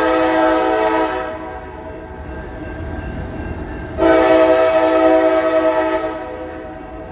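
CSX locomotive's multi-chime air horn blowing two blasts: the first ends about a second in and the second starts about four seconds in and lasts about two seconds. The locomotive's low engine rumble continues underneath.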